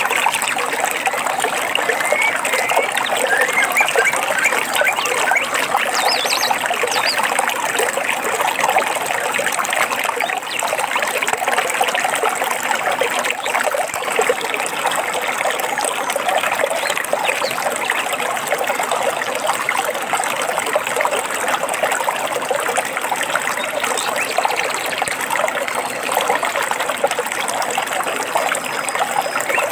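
A stream trickling and babbling steadily over stones, with a few short bird calls in the first several seconds.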